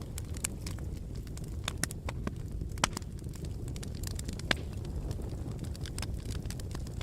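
Wood fire burning in a fireplace: a steady low rumble of flames with frequent sharp crackles, and two louder pops about three and four and a half seconds in.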